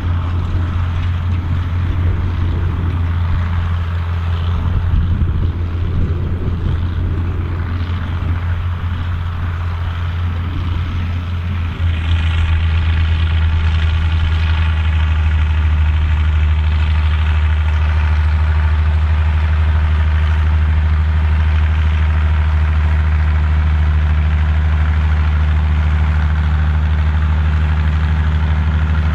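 Massey Ferguson 2680 tractor's diesel engine running steadily under load while pulling a cultivator, a loud low drone. About twelve seconds in the note changes to a smoother, more even drone with a faint whine above it.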